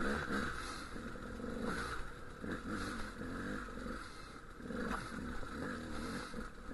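Dual-sport motorcycle engine running at low speed, its pitch rising and falling with the throttle as the bike works over rough rock, with a few knocks and clatter from the bike hitting rocks.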